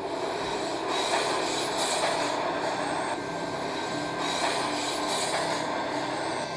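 Subway train running along the track, heard from inside the car: a steady rumble and rattle of the wheels. A thin high whine joins in about three seconds in.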